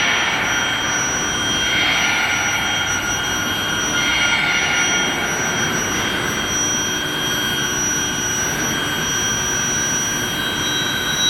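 Rebar induction quenching and tempering line running: a steady machine din with several high, steady whining tones over it.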